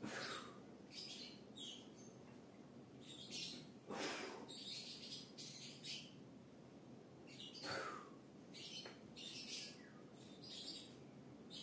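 Birds chirping in short, irregular bursts. About every four seconds there is a short, sharp breath, in time with slow pull-up reps.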